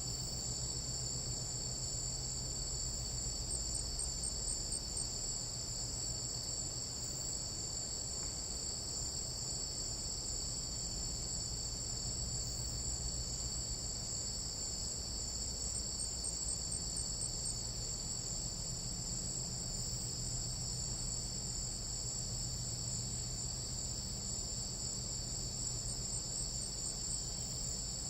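Tropical jungle night insects, crickets among them, trilling in a dense, unbroken chorus. The high-pitched drone sits in two steady bands, with a faint low hum underneath.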